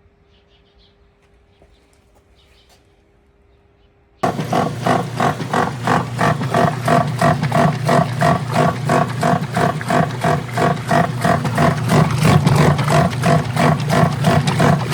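Admiral direct-drive washing machine starting up abruptly about four seconds in and running loudly, with a steady low motor hum under a rapid, rough pulsing of about three beats a second. Before that there is only a faint hum and a few faint chirps.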